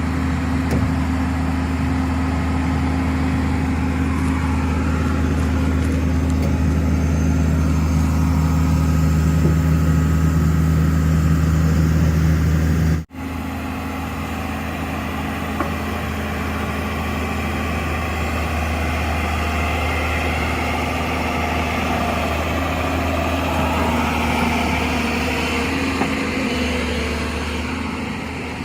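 Heavy diesel engine of earth-moving machinery running steadily, with a cut about halfway through to a different, steadier engine sound.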